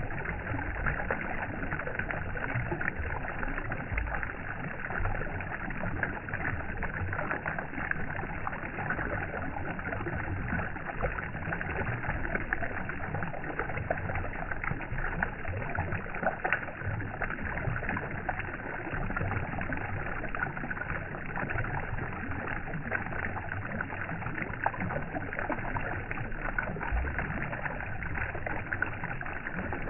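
Running water, steady and unbroken, full of small splashes and gurgles.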